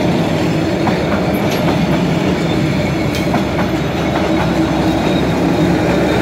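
Passenger coaches of a diesel-hauled train rolling past close by: a steady loud rumble of wheels on rail, with a few sharp clacks as the wheels cross rail joints.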